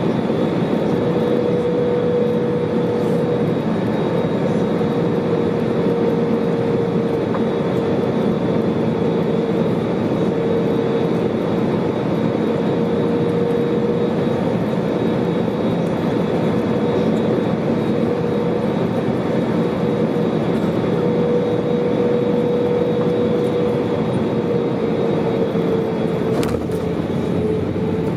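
Airbus A320neo cabin noise in flight: a steady rush of engine and airflow noise with a humming tone that wavers slightly in pitch.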